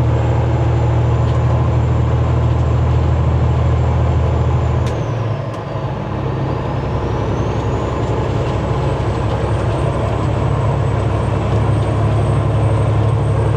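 Semi truck's diesel engine running under way, with a thin high whine above it. About five seconds in, the engine note drops for a moment and the whine falls in pitch, then climbs back as the engine pulls again.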